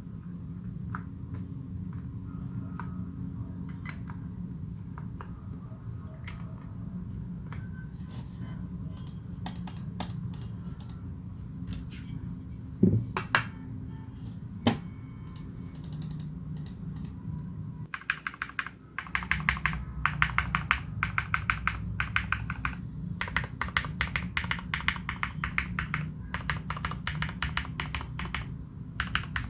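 Typing on a KBD75v2 mechanical keyboard with modded Cherry Retooled Black linear switches and Domikey Dolch keycaps, over a steady low hum. The first stretch has only scattered keystrokes and a couple of louder single hits. From about two-thirds of the way in come fast, continuous runs of keystrokes.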